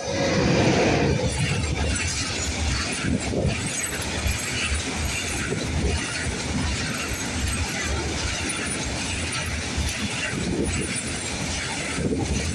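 Freight train wagons rolling past close by: a steady rumble of wheels on the rails with irregular metallic rattling and clanking throughout, getting louder right at the start.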